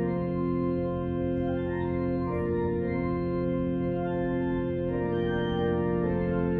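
Organ playing slow, sustained chords over a held bass note, the chord changing every couple of seconds.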